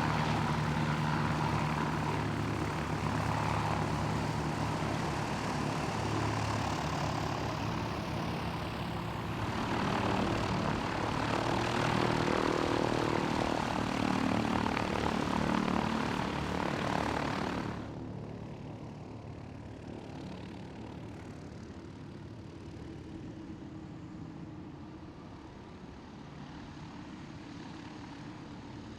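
Propeller aircraft's piston engine running with a steady low drone and a whir of noise from the propeller. About eighteen seconds in it cuts off abruptly, leaving a quieter steady background hum.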